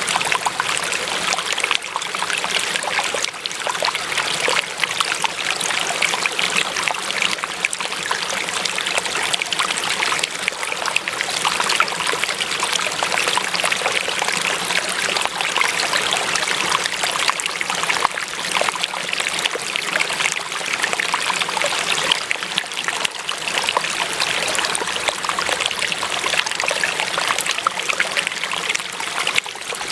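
Water running and trickling steadily, like a small stream or brook flowing over stones, with a constant bright splashing.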